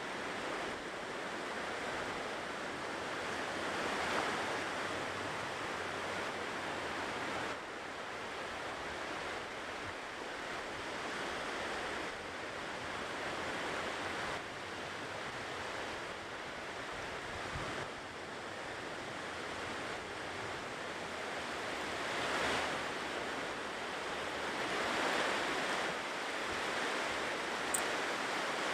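Ocean surf washing onto a shore: a steady hiss of breaking water that swells louder as larger waves come in, notably a few seconds in and twice near the end.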